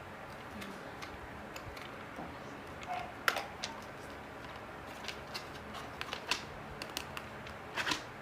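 Hard plastic parts of a Deerma DX115C vacuum cleaner clicking and knocking as they are handled and pushed together, in scattered taps that come more often in the last few seconds.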